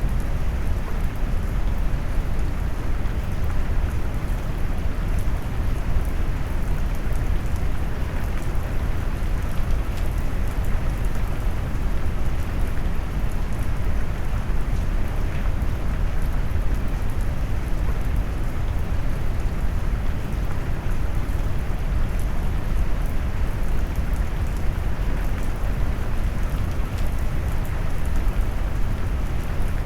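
Steady rain noise mixed with brown noise: a deep, even hiss weighted toward the low end, with faint raindrop ticks on top.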